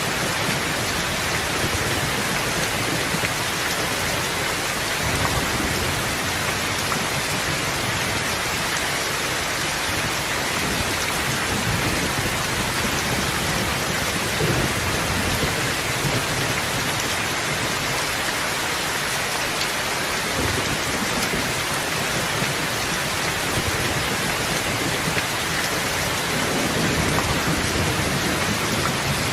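Steady heavy rain, an even dense hiss, with a few low rumbles of thunder rising and falling through it.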